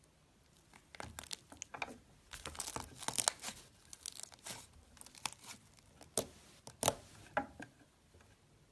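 Slime being squeezed and stretched by hand, making a dense run of sharp crackles and pops that starts about a second in and dies away near the end.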